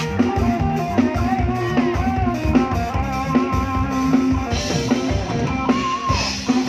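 Live band playing: a drum kit keeps a fast, steady beat under bass and a melodic lead line.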